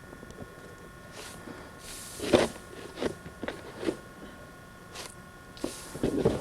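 Footsteps crunching in deep snow, a string of irregular steps with the heaviest one about two seconds in and another near the end.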